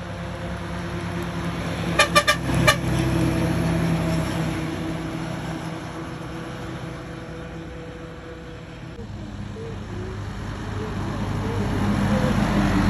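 A truck engine running steadily, with four short horn toots in quick succession about two seconds in. The engine grows louder near the end.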